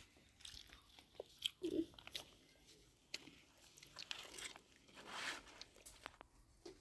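Faint scattered crunching and clicking, with a longer rustling swell about five seconds in.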